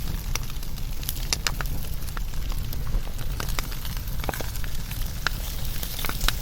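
Wood fire burning and crackling, with irregular sharp pops and snaps from the burning wood over a steady low rumble and hiss.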